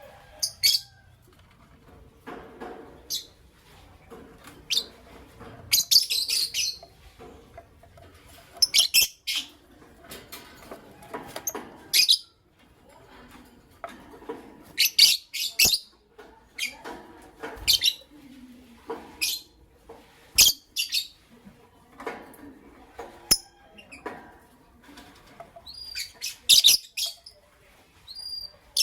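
Lovebirds chirping: short, sharp, high-pitched chirps coming in quick clusters every couple of seconds, with softer lower chatter in between.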